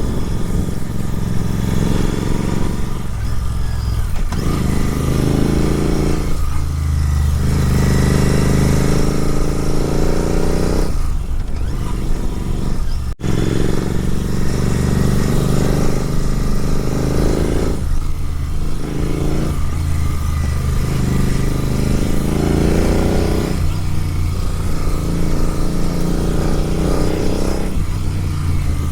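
Superbike with a full-system exhaust riding under load, heard from a microphone moved to the back of the bike. The engine note climbs and falls back again and again as the throttle is opened and eased.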